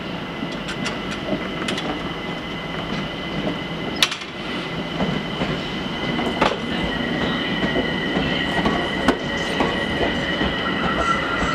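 A train running slowly on the rails with a steady high-pitched wheel squeal, and a few sharp clicks from the wheels and track.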